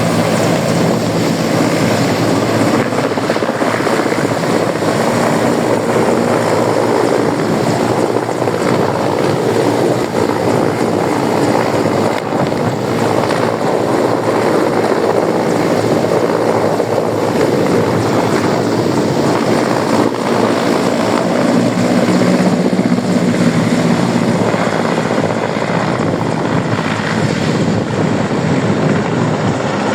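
Large helicopter running, its engines and rotor making a loud, steady noise with a low hum underneath.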